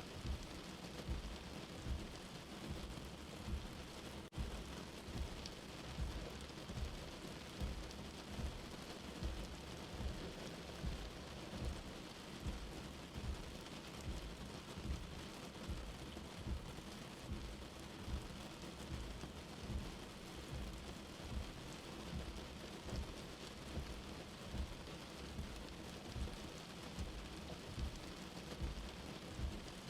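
Rain falling steadily, with a low drip-like thud repeating about once a second.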